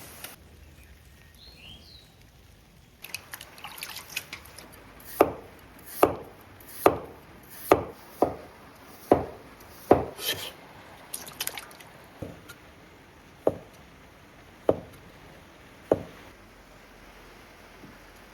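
Kitchen knife slicing beef on a cutting board, a sharp knock at each stroke, about one a second from about five seconds in.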